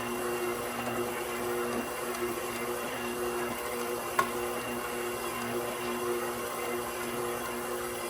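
KitchenAid Professional 6000 HD stand mixer's DC motor running steadily at low stir speed with the spiral dough hook kneading bread dough, a steady hum. A single light click about four seconds in.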